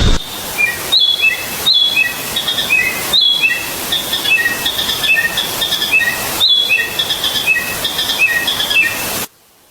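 A bird calling over and over: short, falling whistled notes in quick repeated phrases, over a steady hiss. The calling stops abruptly near the end.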